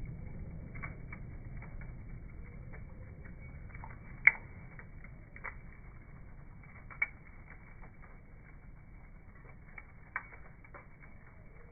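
Bonfire crackling: irregular small pops and snaps over a low steady rumble, with one sharp loud crack about four seconds in and a few smaller ones later.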